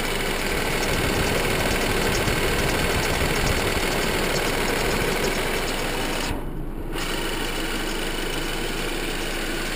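2008 Audi A4 2.0 turbo four-cylinder engine idling on a cold start, heard up close at the timing belt cover. The owner places a cold-start squeaking noise at that cover.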